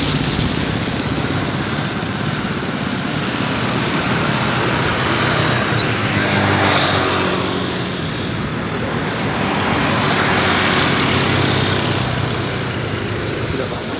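Jet aircraft engine noise at an airport, swelling twice, once about halfway through and again a few seconds later, as if passing by.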